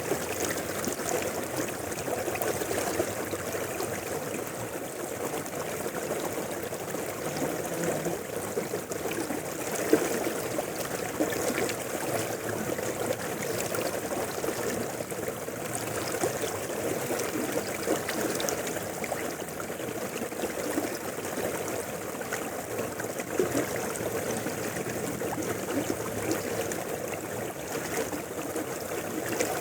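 Mountain river flowing: a steady rush of running water with no change in level.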